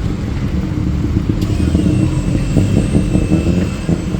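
Street traffic: motorbike and car engines running and passing close by, a loud continuous rumble.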